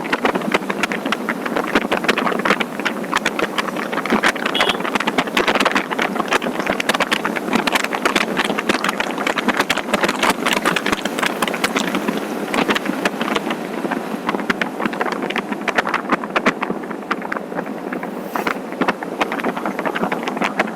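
Wind rushing and buffeting over the microphone of a moving motorcycle, with vehicle noise underneath, unbroken throughout.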